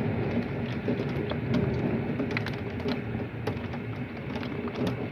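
Heavy thunderstorm rain: a steady rushing hiss broken by many irregular sharp taps of drops striking hard surfaces close by, with a faint steady hum underneath.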